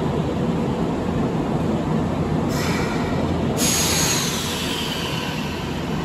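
Semboku 3000 series electric train moving slowly alongside a platform, its wheels and running gear making a steady rumble. A high-pitched wheel squeal starts about two and a half seconds in, grows louder about a second later with pitch falling away, then fades.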